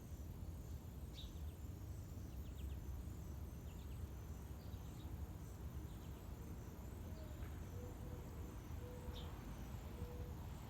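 Faint bird chirps, short and scattered, over a steady low rumble of outdoor background noise. In the second half come four brief low notes of even pitch, the first a little higher than the rest.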